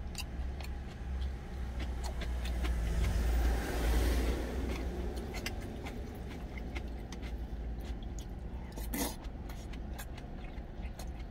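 Chewing on crisp cabbage kimchi, with small clicks of wooden chopsticks and spoon against a stainless steel bowl and one sharper clink near the end. Under it a steady low rumble, and a passing vehicle swells and fades, loudest about four seconds in.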